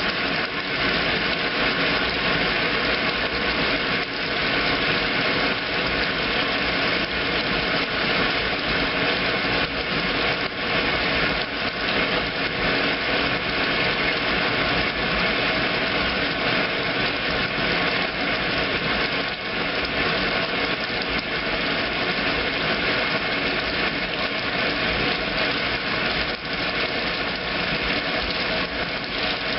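2008 Kenmore top-load washing machine running its heavy duty cycle: a steady, continuous motor and drive hum that holds even throughout.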